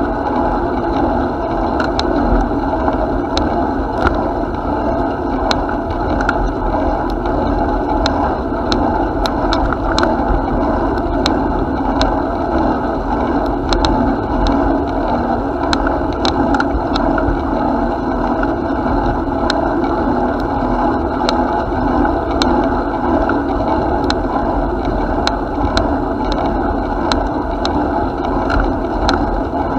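Bicycle riding along a path: a steady rolling rush of tyre noise over a fluctuating low rumble, with frequent small sharp clicks and rattles.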